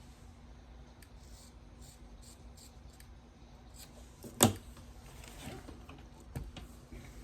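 Small handling sounds over quiet room background, with one sharp scissors snip about four and a half seconds in and a fainter click near the end.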